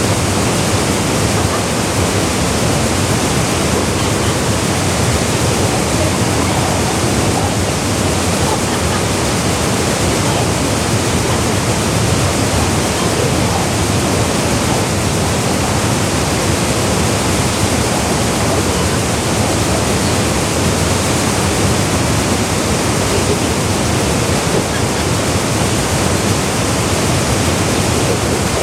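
Waterfall plunging into a pool: a loud, steady rush of falling water with no change.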